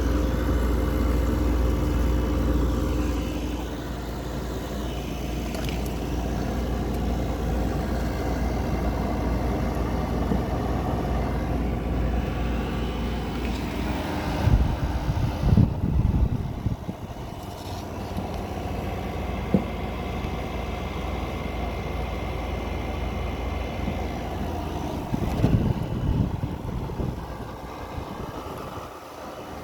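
A 2024 Midea 5,000 BTU window air conditioner running: a steady fan rush over a low compressor hum with a few steady tones. There are clusters of low thumps about halfway through and again near the end, and the low hum falls away just before the end.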